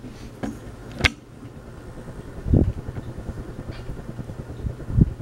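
1970s Hunter Original ceiling fan running at its single high speed: a steady motor hum, with low rumbling thumps of the blades' draft on the microphone about two and a half seconds in and again near the end. A sharp click comes about a second in.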